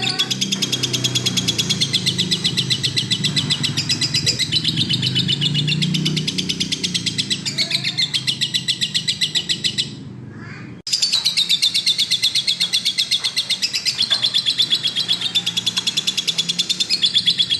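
Lovebird singing a long, rapid chattering trill of evenly repeated high notes. It breaks off for about a second roughly ten seconds in, then carries on.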